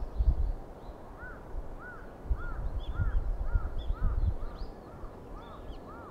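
A bird calling over and over: a string of short, clear, arched notes, about two a second, beginning about a second in. Gusts of wind buffet the microphone at the same time.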